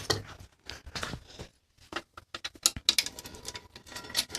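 Irregular metal tool clicks and light rattling as hand tools work the bolts on a mountain bike's crank arm, with a brief faint metallic ring in the second half.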